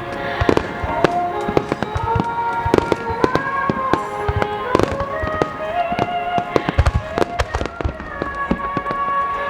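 Fireworks shells bursting one after another in a rapid string of sharp bangs, over music with long held melody notes.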